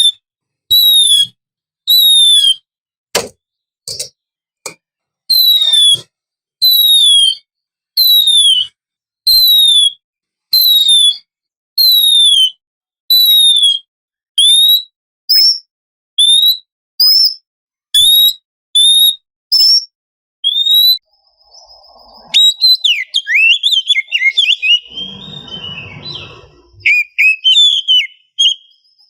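Oriental magpie-robin (kacer) calling: a string of short, high, downward-slurred whistles repeated about once a second. About three quarters of the way through it breaks into a fast, varied warbling song.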